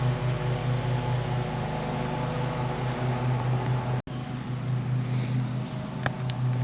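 Lawn mower engine running at a steady drone, with a brief break about four seconds in where it picks up again unchanged; a couple of faint clicks near the end.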